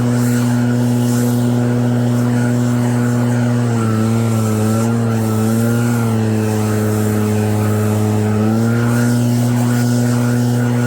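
Snow blower engine running steadily at high speed; its pitch sags for about four seconds midway, as if pulling under a load of snow, then climbs back.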